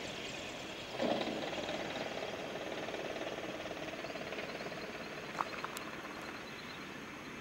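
Light propeller aircraft engine running, its buzz slowly fading. Two sharp clicks about five and a half seconds in.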